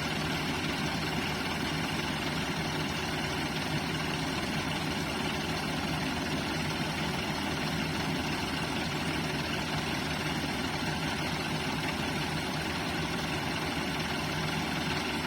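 Ford farm tractors' diesel engines running steadily under load while pulling a trolley stuck in wet sand.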